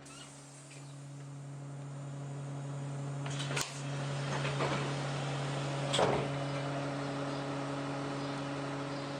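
Stationary Alexander Dennis Enviro 200 bus running with a steady hum that slowly grows louder. Two sharp clicks or knocks come about three and a half and six seconds in.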